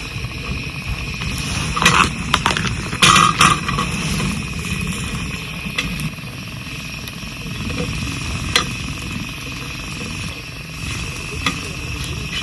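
Scattered clinks and knocks of camp cooking gear being handled, the busiest stretch about two to three and a half seconds in, over a steady low background.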